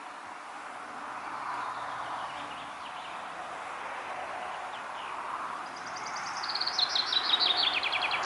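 Steady wind noise outdoors, with a few faint bird notes. In the last couple of seconds a songbird sings a loud, fast series of repeated high notes that step down in pitch.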